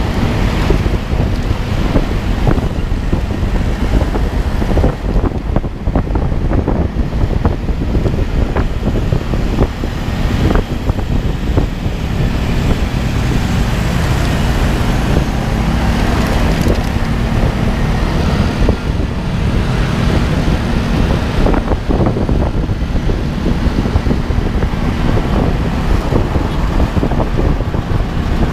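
Wind buffeting the microphone over the steady rumble of a moving vehicle, loud and continuous with irregular knocks from the gusts.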